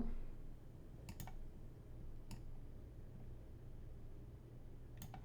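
A few sharp, sparse computer mouse clicks over a low steady hum.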